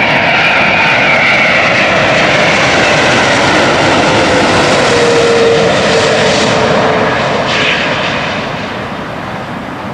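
Boeing 787-8 jet engines at high thrust in a go-around, loud and steady. The engine whine falls slowly in pitch as the airliner passes and climbs away, and the sound fades near the end.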